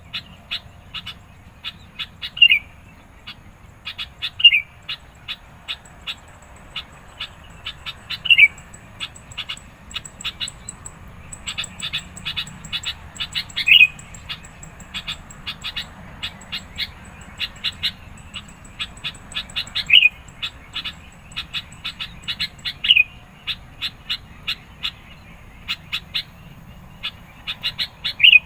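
Sooty-headed bulbul calling insistently: rapid runs of short sharp chirps, broken every few seconds by a louder note that sweeps downward, the agitated calling that bird keepers use to provoke a rival.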